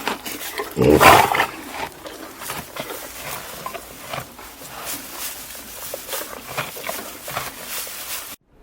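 A big cat roaring once, about a second in, followed by lower rough, crackly noise. The sound cuts off suddenly near the end.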